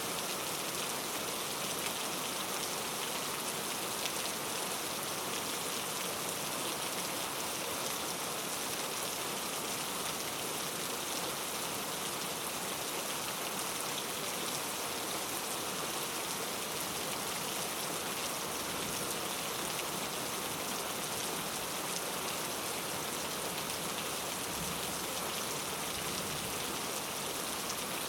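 Steady rain falling on forest foliage, a constant hiss with a dense patter of drops.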